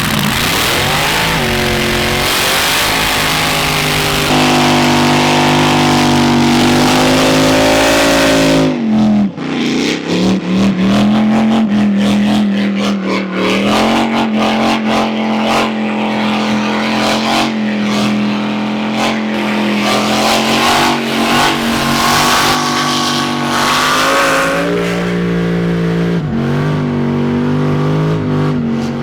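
The blown LS V8 in an R34 Skyline burnout car is held at high revs with the tires screeching for about the first nine seconds. After a brief dip, the engine stutters rapidly against the rev limiter at a steady pitch.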